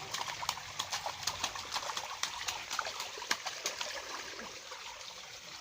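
Water trickling and splashing in a small garden waterfall and stream, with many irregular sharp splashes and drips over the steady run of the water, as a child wades in it.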